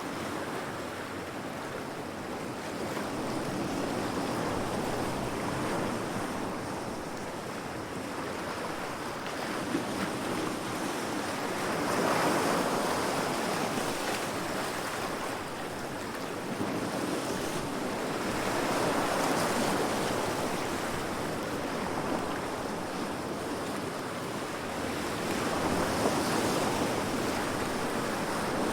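Heavy ocean waves breaking against rocks: a continuous rushing surf that swells and eases about every seven seconds.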